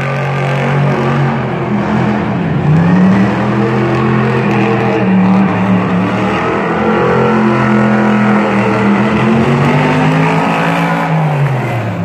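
Monster truck engine running hard on a timed run, its pitch climbing and dipping as the throttle opens and eases, then falling away near the end.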